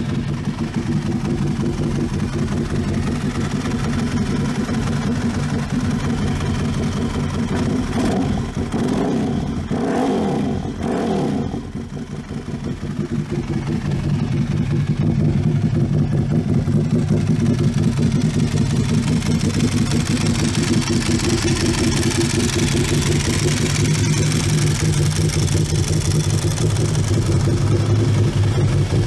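Custom Ducati's air-cooled L-twin, bored out from 1100 to 1200 cc with ported heads and NCR cams, running at idle. It is revved briefly a few times about a third of the way in, then idles steadily and louder from about halfway.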